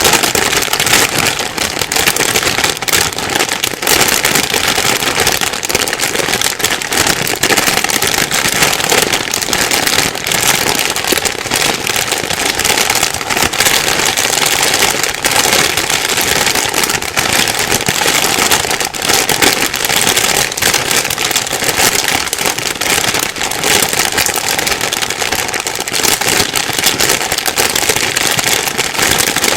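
Plastic bag being crumpled and rustled without a break: a dense, crinkly crackle of many tiny clicks.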